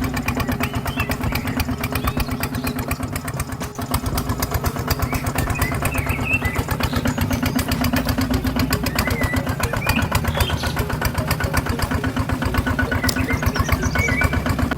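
A small engine running steadily with a rapid, even chugging pulse.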